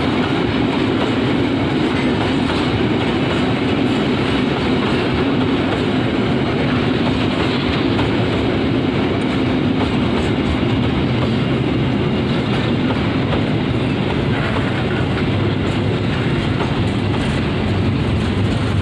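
Container freight train of flat wagons rolling past close by: a steady, even noise of steel wheels running on the rails.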